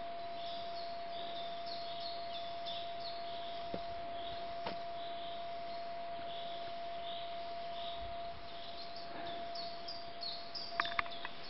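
Forest birds singing: short high chirps repeated again and again, over a steady single tone, with a few sharp clicks near the end.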